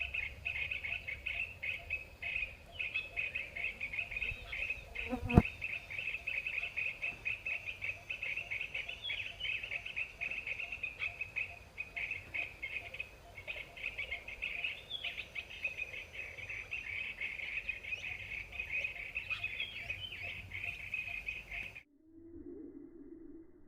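Insects trilling steadily in a dense, fast-pulsing high chorus, with a few short bird chirps over it and one sharp click about five seconds in. Near the end the sound cuts off abruptly and a low steady hum takes over.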